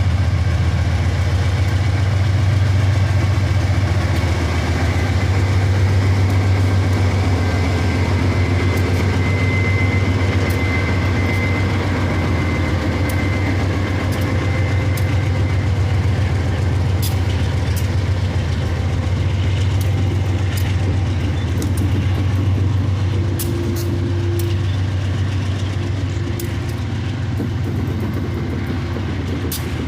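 Diesel freight locomotive running with a steady deep hum. Scattered sharp clicks come in the second half.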